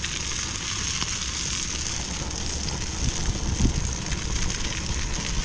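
Salmon fillet sizzling steadily as it cooks, with a low rumble underneath.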